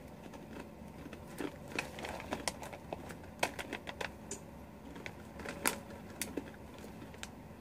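A crunchy garlic bagel chip being chewed: irregular sharp crunches, a dozen or so spread over several seconds.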